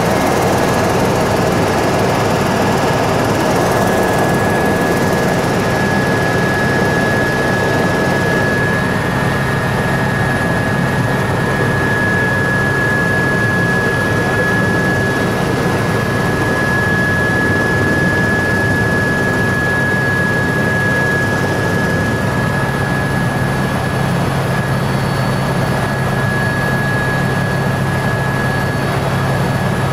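Helicopter in flight, heard from inside the cabin: a steady, loud drone of engine and rotor with a constant high whine.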